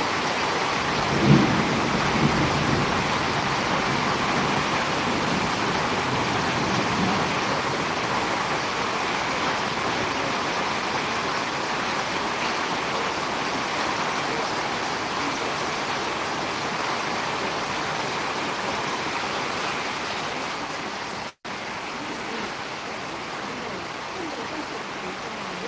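Steady rain during a storm, a continuous even hiss, with a short low thump about a second in. The sound drops out for an instant about 21 seconds in.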